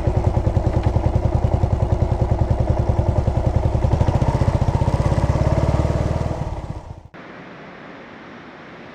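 Yamaha SR400's single-cylinder engine running at low revs with a steady, even beat of exhaust pulses. About six seconds in it dies away, then gives way abruptly to a much quieter hiss of outdoor ambience.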